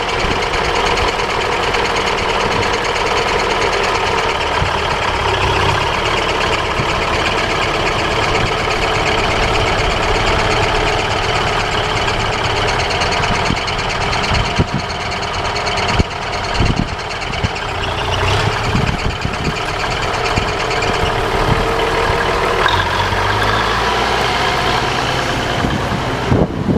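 The 1984 Versatile 895 four-wheel-drive tractor's Cummins inline-six turbo diesel runs steadily just after start-up, with a few short knocks around the middle.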